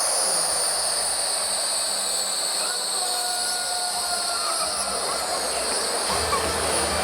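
Many jet balloons released by a stadium crowd, whistling shrilly as they fly, with many overlapping whistles gliding up and down in pitch over a steady hiss. A low rumble of crowd noise joins near the end.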